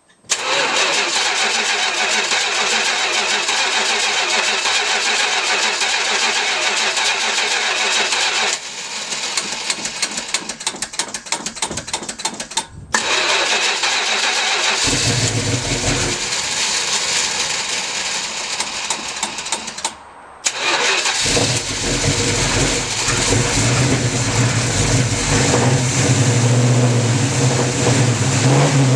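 Cold start of a 1970 Plymouth Cuda's 340 V8 fed by a Quadrajet carburettor on pump gas. The starter cranks at length, stops for a moment, and cranks again until the engine catches about fifteen seconds in. After a brief dip near twenty seconds it runs steadily.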